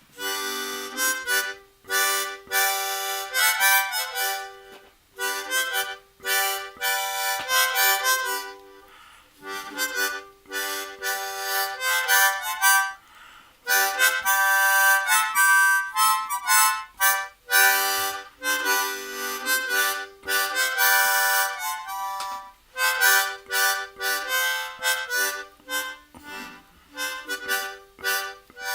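Harmonica played solo: chords and single notes blown in short phrases with brief gaps between them.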